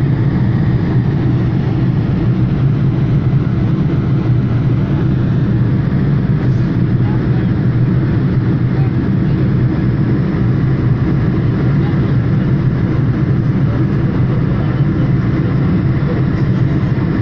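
Steady low drone of an airliner's jet engines and rushing air heard inside the passenger cabin during the climb after takeoff, even in level with no changes.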